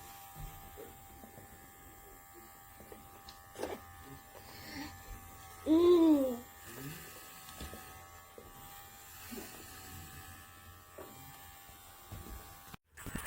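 oneisall cordless pet clippers running with a faint steady electric buzz. About six seconds in comes one short meow, rising then falling in pitch.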